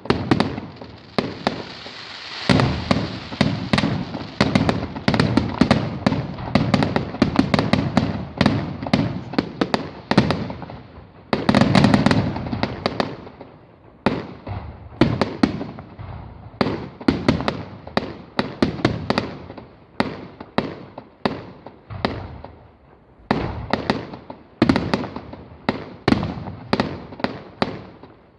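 Fireworks display: a dense barrage of bangs and crackling, heaviest in the first half, then giving way to quick separate bangs, each trailing off in an echo.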